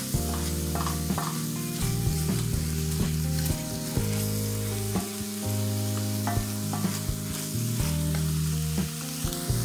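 Chopped onion, cubanelle pepper and garlic sizzling in oil in a frying pan while a wooden spoon stirs them, with many short clicks and scrapes of the spoon against the pan. Low background music runs underneath.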